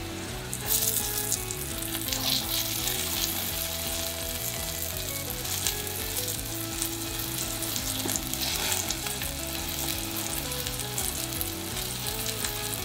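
Starch-dusted eggplant slices sizzling in hot oil in a frying pan, turned over with chopsticks; the sizzle flares up about a second in and again now and then.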